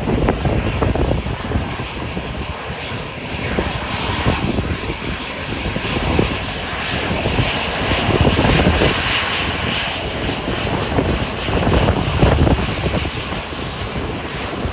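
Departing airliner's engines at take-off power, a broad rush that swells about halfway through, with gusting wind buffeting the microphone.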